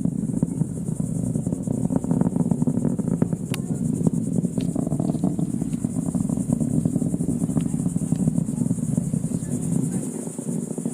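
Distant rocket launch rumble, a steady low crackling roar with no breaks, easing slightly near the end. A steady high chirring of insects runs under it.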